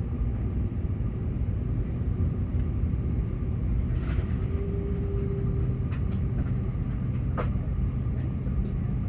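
Airbus A380 engines running, heard inside the passenger cabin as a steady low rumble. A short steady hum sits over it about four seconds in, and a few faint clicks follow.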